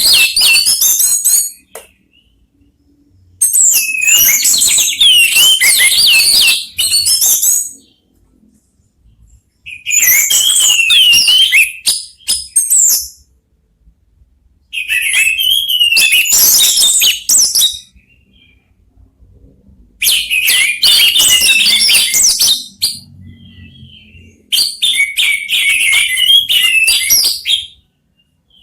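Orange-headed thrushes singing in turn: about six loud phrases of fast, varied whistled warbling, each two to three seconds long, with short silent pauses between.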